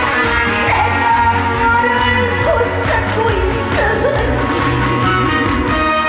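A woman singing a Korean trot song through a PA over amplified backing music with a steady drum beat.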